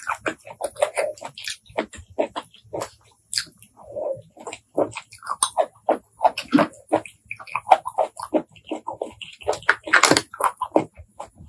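Close-miked wet chewing and lip smacking of blood cockle meat dipped in chili sauce, a quick irregular run of moist clicks and slurps.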